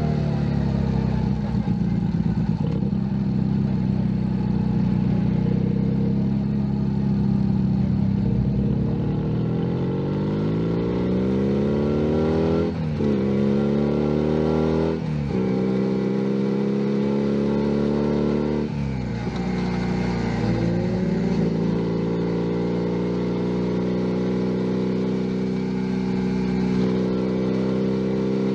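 Junak M11 Cafe 125 cc single-cylinder motorcycle engine on the move. It cruises at a steady pitch, then accelerates through the gears: the pitch rises and drops sharply at three upshifts, about 12, 15 and 19 seconds in. It then holds a steady cruise.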